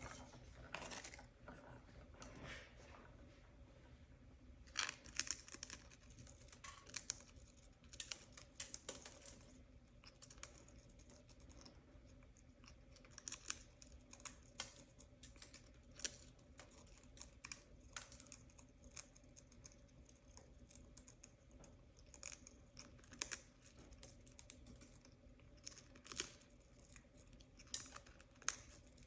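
Parrot nibbling bread with its beak: scattered small crunches and clicks, irregular and a few every second, over a faint steady hum.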